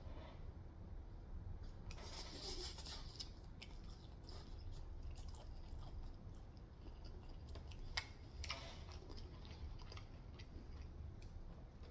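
Quiet chewing of Korean fried chicken, with a few short crisp clicks and crackles about two seconds in and again around eight to nine seconds.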